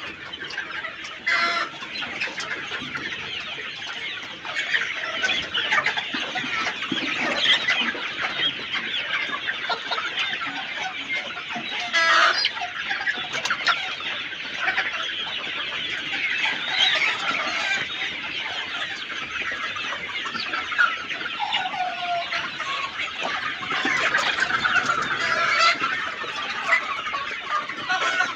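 A large flock of chickens clucking and calling all at once, a dense, continuous chatter of many overlapping calls.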